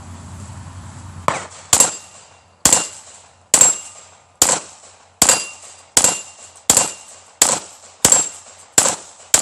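A gun fired about a dozen times at a steady pace, roughly one shot every three-quarters of a second, at steel plate targets. A faint metallic ring from the struck steel follows some of the shots.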